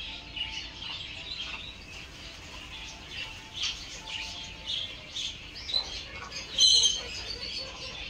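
Birds chirping: many short, high chirps scattered through, with one louder, harsher call about six and a half seconds in.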